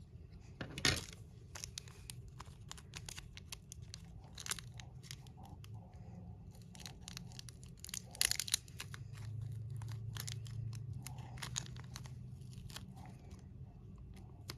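Small plastic model-kit parts being handled and fitted by hand: scattered light clicks and rustling, with two sharper clicks about a second in and about eight seconds in.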